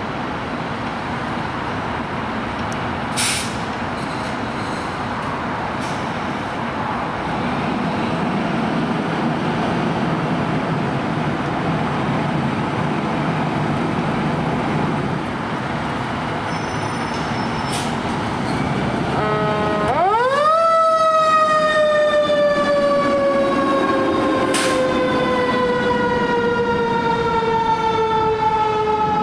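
Fire truck's mechanical siren spinning up quickly about two-thirds of the way in, then winding down in a long, slow falling wail. Before it, steady road and engine noise from passing traffic.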